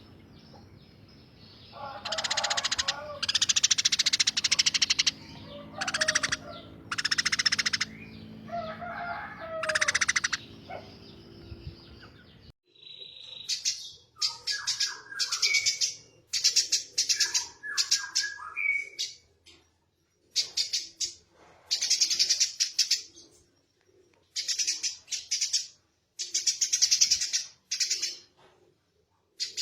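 Eurasian tree sparrow singing vigorously in harsh, rapid chirps. The chirps come in bursts of one to two seconds, repeated with short gaps. About twelve seconds in, a low background hum drops away and the bursts become shorter and more evenly spaced.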